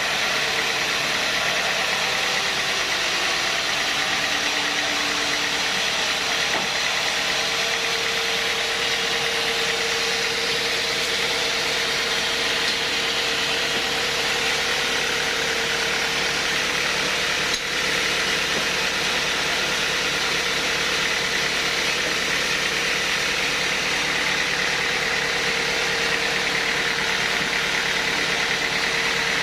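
Sawmill machinery running steadily: a constant mechanical drone with a held whine that comes in about seven seconds in.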